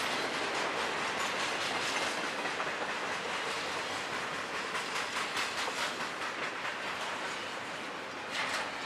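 Freight train cars rolling past at close range, steel wheels clacking over the rail joints in rhythmic runs over a steady rumble, with a louder clatter near the end.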